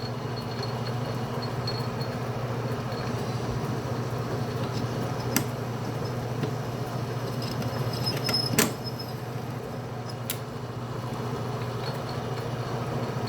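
Atlas metal lathe running steadily with a single-point boring tool taking a cleanup pass on an internal square thread in 304L stainless steel. The cut doesn't sound too bad. A few sharp clicks stand out, the loudest about two-thirds of the way through, where the cutting noise briefly swells and then drops away.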